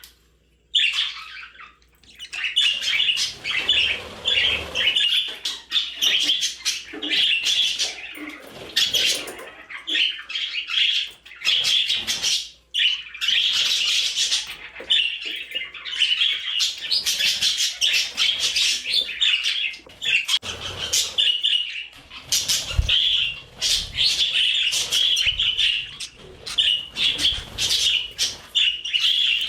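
Budgerigars chattering and warbling, a rapid, continuous stream of high chirps and squawks with a few brief pauses.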